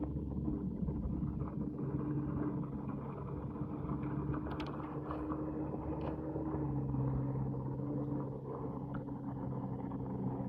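Mitsubishi Pajero 4x4's engine running steadily at low revs, its pitch dropping slightly about six and a half seconds in, with a few faint knocks.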